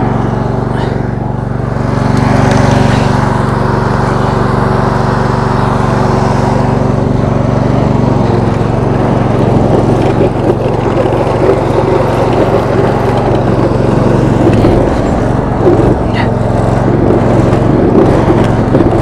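22 hp V-twin engine of a Roper lawn tractor running steadily. About eight seconds in its note shifts and turns rougher and more uneven.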